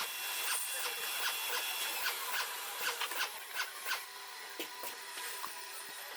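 Faint metallic clicks and scraping of hand work on a cylinder head's valve train: valve spring retainers being compressed and split valve keepers set into place to lock the valves.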